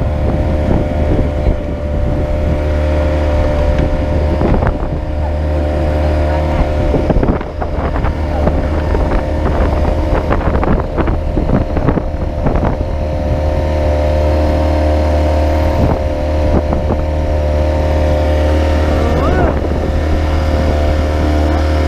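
Small motorboat engine running steadily at a constant speed, a continuous low drone with some clattering over it.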